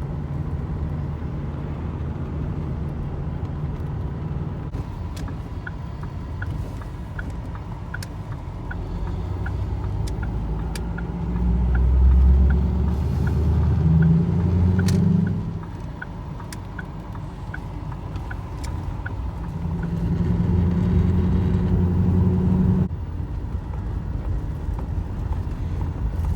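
Ford pickup's Power Stroke diesel engine pulling a loaded gooseneck trailer, swelling twice as it accelerates. Through the middle a turn signal ticks about twice a second.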